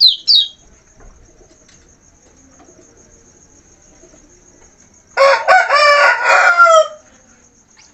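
A rooster crows once, about five seconds in, a call of nearly two seconds that drops in pitch at the end. At the very start a small songbird's rapid high trill breaks off, and a faint steady high whine sits underneath.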